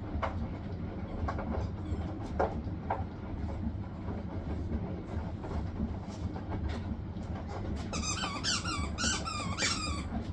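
Hisense washing machine spinning: a steady low rumble with scattered clicks and knocks. About eight seconds in, a run of high, wavering squeaks lasts about two seconds.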